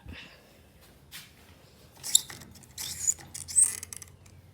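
Mechanical clicks and a couple of short high squeaks from a Hampton Bay Raleigh III ceiling fan's mechanism, with a low hum setting in about halfway through.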